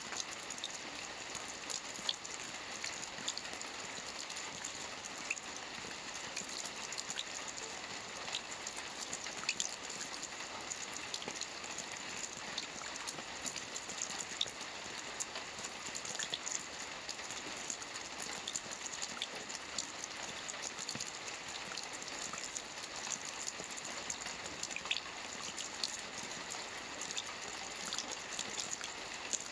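Soft rain falling steadily on a roof: an even patter with scattered single drops ticking through it.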